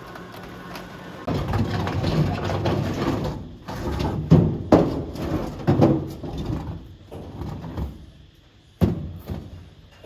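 A rumbling, scraping noise with a string of heavy clunks and knocks, then a single sharp bang near the end.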